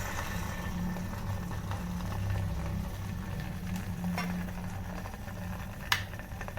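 Electric kettles heating, giving a steady low hum and a faint hiss, with a light click about four seconds in and another about six seconds in.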